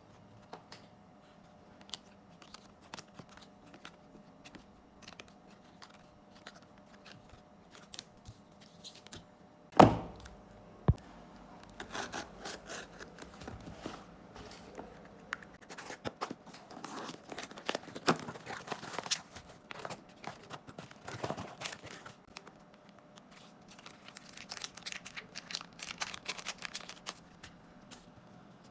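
Packaging being opened by hand: scattered light taps and clicks, a sharp thunk about ten seconds in and a smaller knock a second later, then long stretches of tearing and crinkling wrapping.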